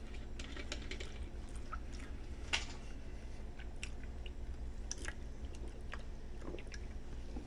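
A person chewing a mouthful of sub sandwich on a soft bread roll, with scattered soft mouth clicks and one sharper click a few seconds in. A steady low hum runs underneath.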